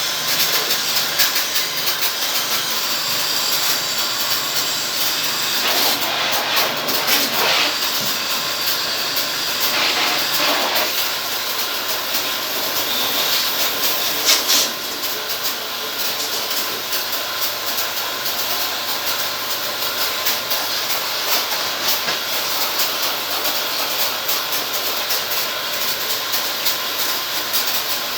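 Steady hiss of a water spray jet washing an air conditioner, loud throughout, easing off slightly about halfway through.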